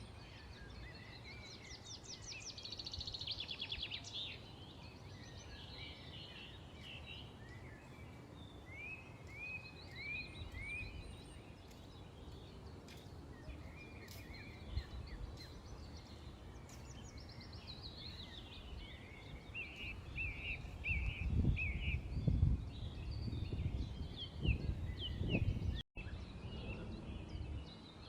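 Several small songbirds chirping and calling at once: repeated short chirps, quick rising notes and a few fast trills, over a steady outdoor background. A low rumble swells in the last several seconds.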